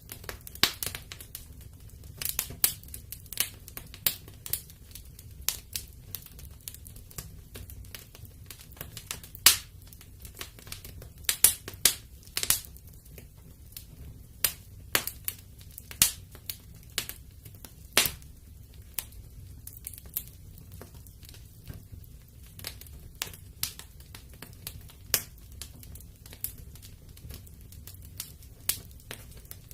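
Wood fire burning in a fireplace: irregular crackles and sharp pops of burning logs over a soft low rumble of the flames.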